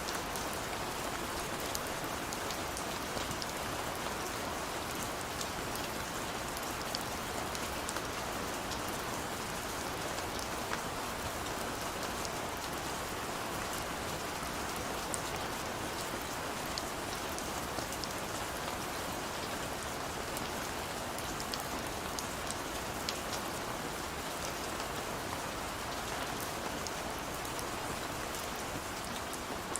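Steady rain falling, a continuous even hiss with many fine drops pattering on hard surfaces close by.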